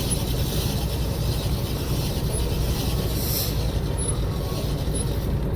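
Steady low rumble of a fishing boat's engine running, with wind and water noise around it.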